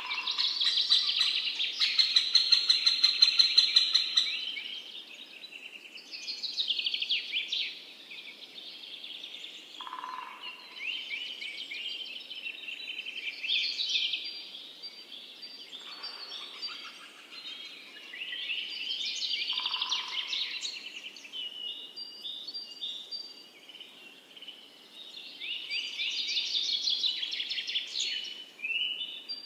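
Songbirds singing in repeated chirping phrases a few seconds apart, with a loud, fast trill in the first few seconds.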